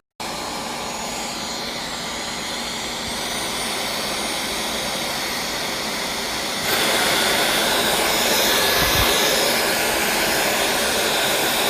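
Dyson V12s Origin Submarine cordless vacuum cleaner running with a steady whooshing whine. It starts suddenly, and about two-thirds of the way through it steps up louder and higher.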